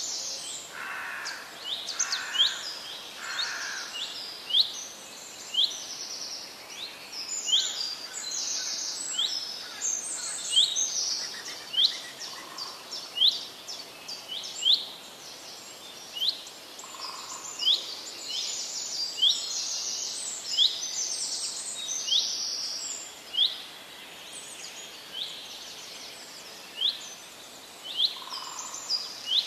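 Birds singing and calling: a steady run of short, sharp, high chirps repeating about once a second, with more high song between them.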